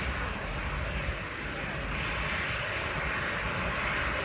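Aircraft engine noise from a fixed-wing plane, a steady rushing sound with a low rumble beneath it.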